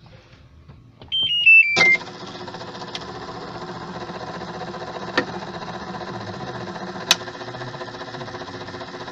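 Automatic washing machine's control panel gives a short run of beeps stepping down in pitch, then the machine starts running with a steady mechanical hum broken by a few sharp clicks. The running noise is the sign of a damaged transmission.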